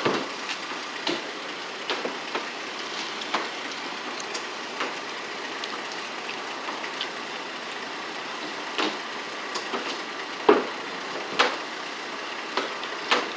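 Steady hiss of water being sprayed onto a car, with scattered sharp knocks and clicks, the loudest twice about ten and eleven seconds in.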